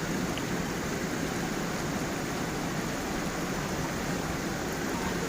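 Stream and small waterfall running steadily: an even rush of flowing water with no breaks.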